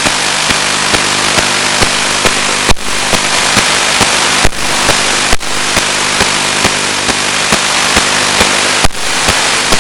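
Loud steady static hiss from an analog 1.3 GHz FPV video receiver's audio channel, with a low hum and regular crackling clicks. The hiss drops out briefly a few times.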